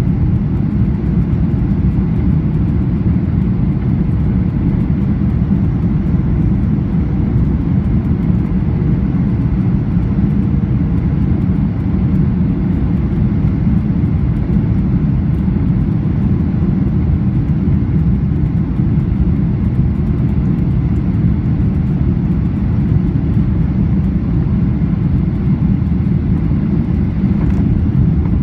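Steady low roar of a Boeing 737-800's cabin: its CFM56 turbofan engines and the air rushing past the fuselage, heard from a passenger seat.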